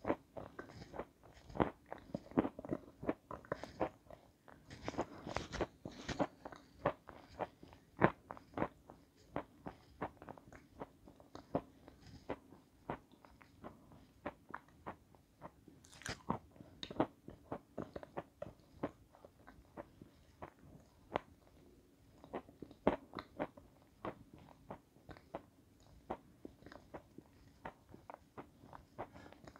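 Close-miked crunching and chewing of a snow-white, crunchy lump: a steady run of crisp crunches and bites, busiest in the first few seconds, with one especially sharp snap about halfway through.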